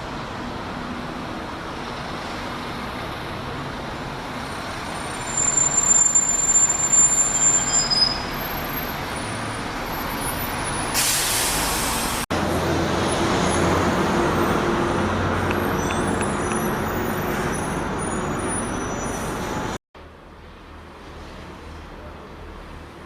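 Buses running in traffic, with a high brake squeal and then a short hiss of air from the air brakes. The sound cuts off abruptly twice, first to an engine running and then to a quieter background.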